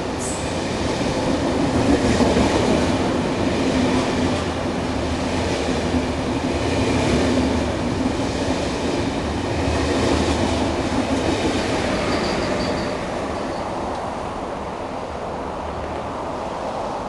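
A locomotive-hauled intercity passenger train passing through a station at speed without stopping: a continuous rumble and clatter of coaches' wheels on the rails, easing somewhat after about thirteen seconds.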